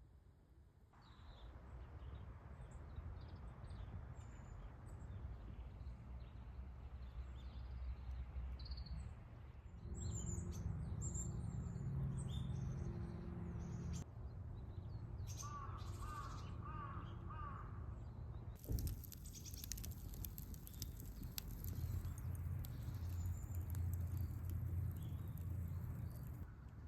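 Outdoor ambience with small birds chirping over a low steady rumble; a run of about five quick calls comes a little past halfway, and a high hiss joins soon after.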